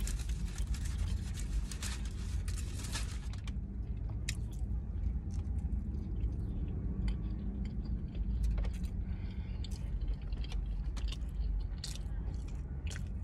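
Close-up chewing and biting into a chicken burrito in a flour tortilla, with wet mouth clicks and crackling, denser in the first few seconds, over a steady low hum.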